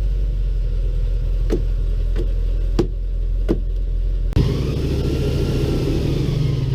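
Airboat engine and propeller running steadily at a low drone. Four short sharp clicks come between about one and a half and three and a half seconds in, and the sound breaks off abruptly and resumes a little over four seconds in.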